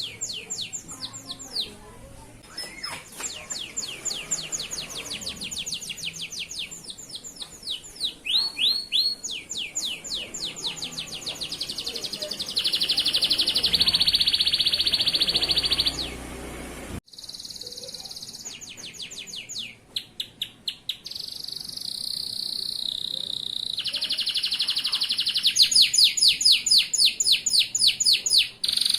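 Male canary singing a long, loud song of rapid rolling trills and held whistled notes, with a sudden break about halfway through.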